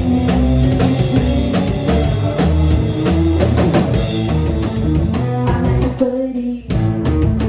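A rock band playing live, with drum kit and electric guitar, in an instrumental stretch between sung lines. The band drops out for a moment about six seconds in, then comes back in.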